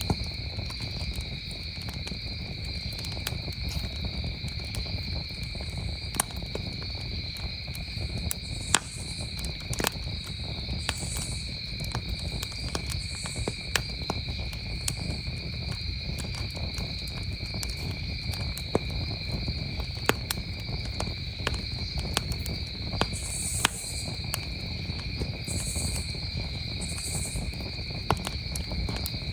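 Campfire crackling, with scattered sharp pops and a few brief hisses, over a steady chorus of crickets chirring at two high pitches and a low, even rumble.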